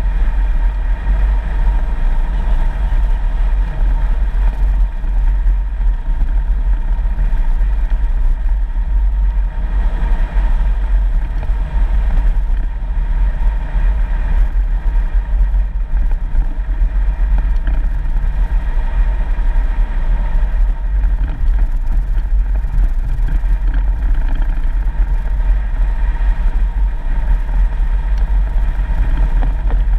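A 4x4 vehicle driving along a dirt road: engine and road noise make a steady, heavy low rumble with no breaks.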